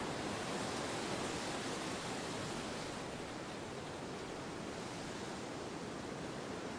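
Steady wind: an even, soft rush with no gusts or distinct events, easing slightly about three seconds in.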